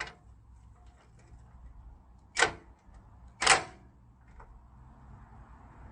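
Two short, sharp clanks about a second apart: a crescent wrench working a stuck factory bolt on the car's radiator support, the bolt refusing to turn.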